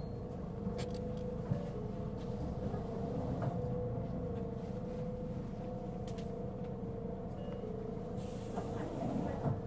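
Mitsubishi Fuso Aerostar city bus's diesel engine running at a steady pitch, with a low rumble and a constant whine: the loud abnormal noise this bus was making. A few faint clicks sound over it.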